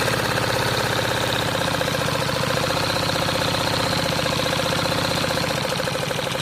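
3D-printed single-cylinder model engine running steadily, its plastic piston and crank parts making a fast, even clatter.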